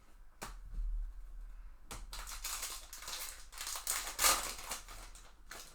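A foil trading-card pack being torn open and its wrapper crinkled. There is a sharp click about half a second in, then about three and a half seconds of dense crackling, loudest near the end.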